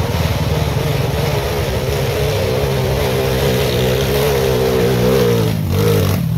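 Dirt bike engine running at a steady, nearly even speed, its pitch wavering slightly, easing off about five and a half seconds in.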